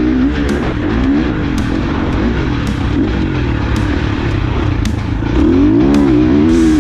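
Dirt bike engine revving up and down as the bike is ridden, its pitch climbing and dropping several times. It grows louder a little over five seconds in.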